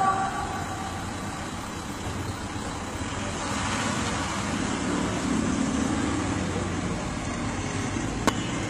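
Steady outdoor city background noise, a traffic-like hum, as the reverberant tail of the chanted call to prayer dies away at the start. A single sharp click comes near the end.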